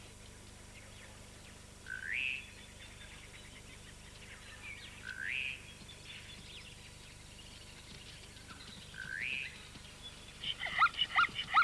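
Wild bird calls: a short whistle rising in pitch, repeated about every three to four seconds, then a quick run of chirps near the end.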